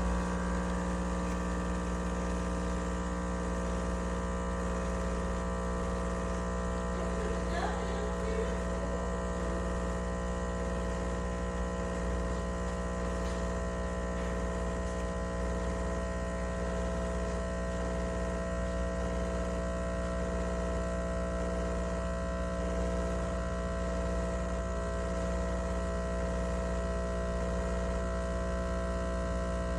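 A steady electrical hum made of several fixed tones, unchanging throughout.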